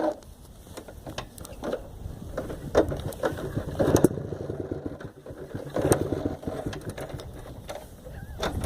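Motorcycle engine running unevenly over rough ground, with scattered knocks and swells in loudness.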